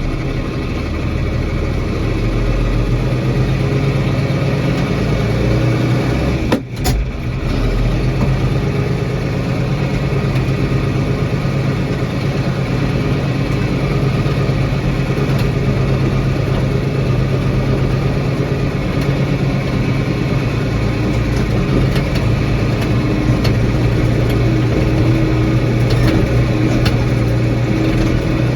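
Diesel engine of a farm vehicle running steadily, briefly interrupted about seven seconds in.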